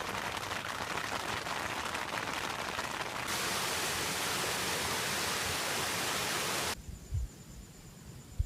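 Rain falling as a steady hiss. About three seconds in it changes abruptly to a denser, even rush, then cuts off near seven seconds to a much quieter background with two low thumps.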